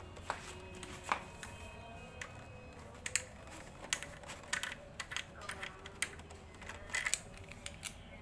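Irregular sharp plastic clicks and taps from the hose connectors of a pressure washer being handled and turned into place, over a faint steady hum.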